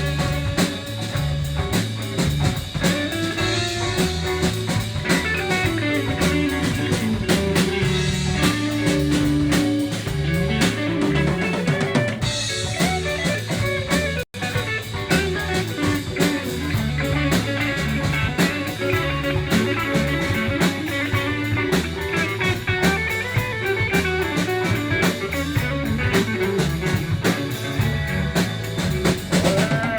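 Live band playing an instrumental passage of a Southern rock song: guitar over a drum kit with a steady beat and bass. The sound cuts out for a split second about halfway through.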